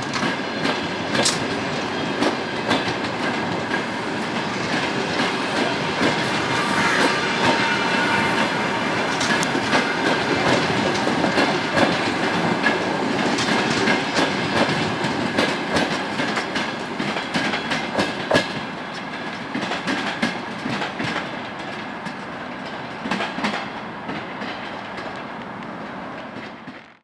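Passenger train rolling past, its carriage wheels clicking over the rail joints in irregular strings of knocks. The sound eases off gradually in the last third.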